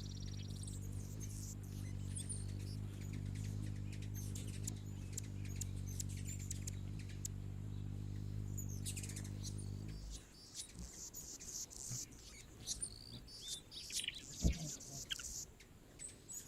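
Hummingbirds at a nectar feeder giving short, high-pitched chirps, scattered through the clip and thickest in its second half. Under them a steady low hum with several even tones runs for the first ten seconds, then stops abruptly.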